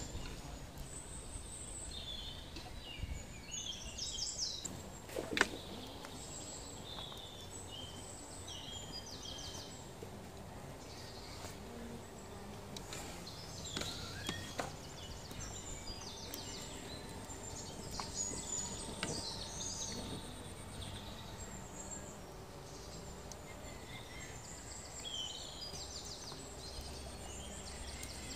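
Small birds chirping and trilling over and over above a faint steady outdoor hiss, with one sharp click about five seconds in.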